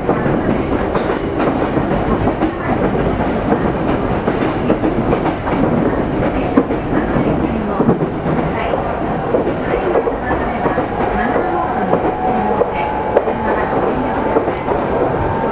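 Meitetsu 300-series electric train, set 317F, running, heard from inside the car: steady rumble with wheel clatter over the rails. A steady whine joins about ten seconds in.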